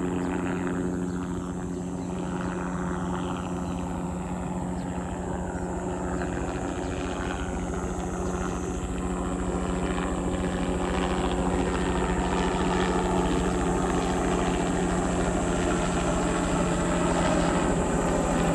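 Crop-spraying helicopter's engine and rotor running steadily, a constant low hum that grows gradually louder toward the end.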